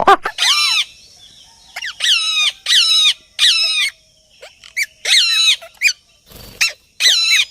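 A bird giving loud, repeated squawking calls, about one a second, each roughly half a second long and dipping in pitch at the start, with short chirps in between.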